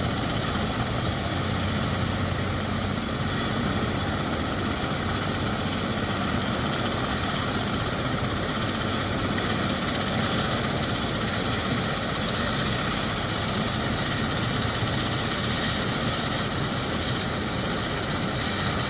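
Medical helicopter running steadily while parked on a rooftop helipad, a constant engine and rotor noise with no change in level.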